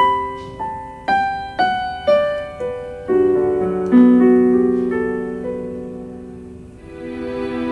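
Casio CT-X800 portable keyboard playing a piano tone: a melody of single notes stepping down about twice a second, then held chords that slowly fade. A fuller sustained chord comes in near the end.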